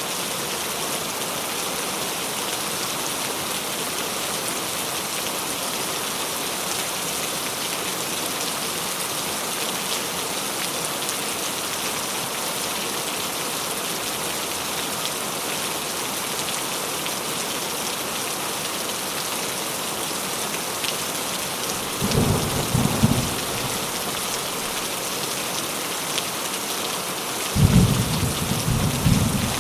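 Steady rain falling, an even hiss of many drops. Twice in the last few seconds low rumbles of thunder rise under the rain.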